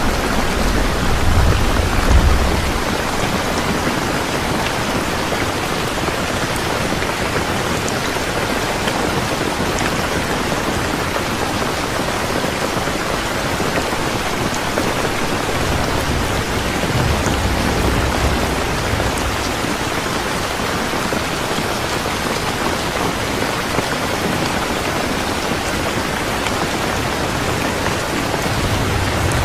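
Steady rain falling, with low rumbles of thunder swelling about two seconds in, again a little past the middle, and near the end.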